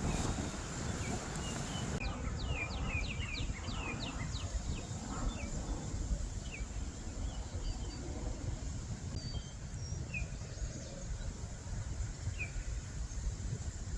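Small birds calling in short, falling chirps, with a quick run of about eight notes a couple of seconds in and scattered single chirps after, over a steady low rumble of outdoor background noise.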